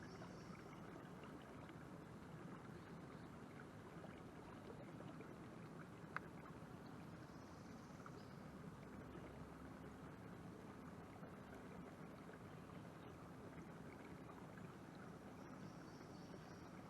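Near silence: faint canal ambience with a low, steady hum, and a single sharp click about six seconds in.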